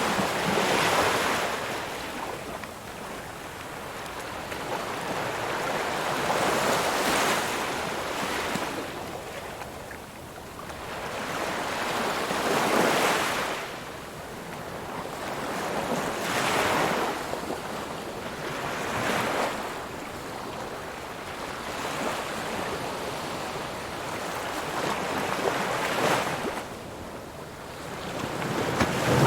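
Ocean waves breaking, in repeated surges of rushing noise that swell and fall away every few seconds.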